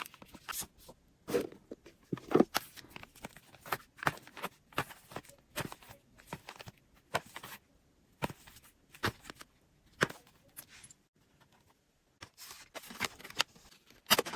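Packaging and a product being handled during an unboxing: a scattered run of small clicks, taps and light knocks at an irregular pace, with a short lull about eleven seconds in.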